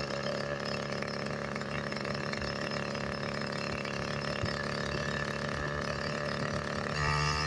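Small motorized-bicycle engine running steadily under way; it gets louder about seven seconds in.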